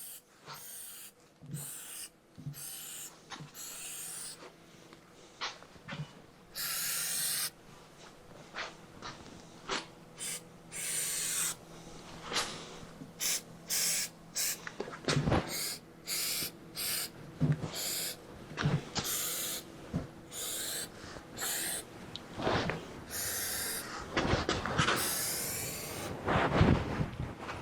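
Aerosol can of rubberized undercoating sprayed in short hissing bursts around a tire bead and rusty rim to seal a leaking bead, with knocks and clicks of handling between the bursts. A faint steady hum lies underneath.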